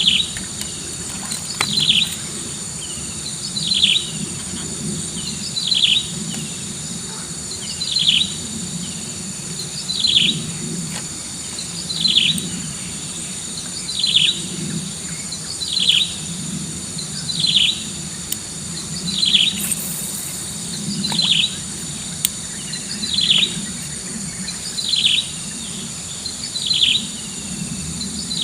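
A bird repeating a short falling call about every two seconds, over a steady high-pitched insect drone.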